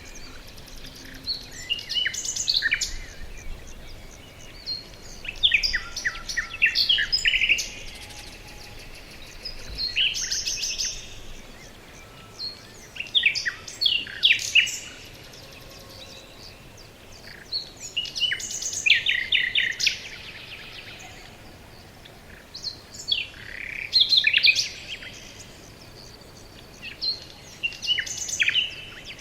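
Songbirds singing: short, bright phrases of quick high notes and trills that come about every four to five seconds, over a faint steady outdoor hiss.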